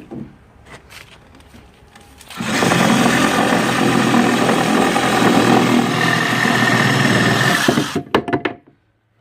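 Electric power saw cutting through wood, running steadily for about five seconds and then stopping, after a few light handling clicks.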